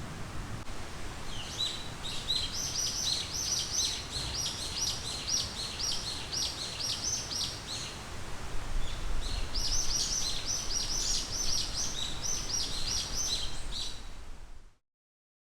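A wild songbird singing two long strings of quick, repeated high notes, with a short pause between them, over a low steady background rumble. The sound fades out shortly before the end.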